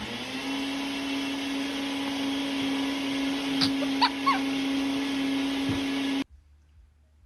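A steady electric motor running with a constant hum and a hiss, cut off suddenly about six seconds in. A few short high squeaks break in around four seconds in.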